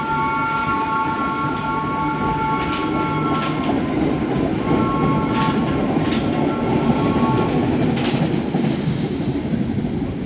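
New York City Subway train running past with a steady rumble and sharp clicks as its wheels cross rail joints. Over this is a steady high ringing of several notes together, which breaks off about three and a half seconds in and comes back for about three seconds.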